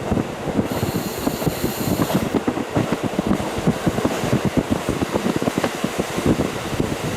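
KiHa 40 diesel railcar running along the line, heard through a fully open window: steady wheel-and-rail rattle and running noise with air rushing in. A brief high ringing comes in about a second in and fades after another second or so.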